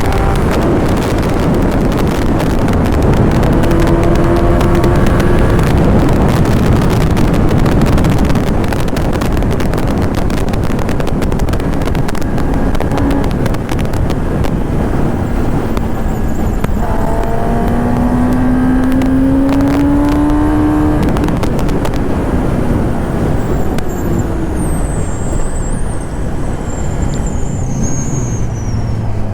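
A 1000cc four-cylinder superbike riding at speed, its engine note climbing under acceleration twice, with heavy wind rush over the microphone.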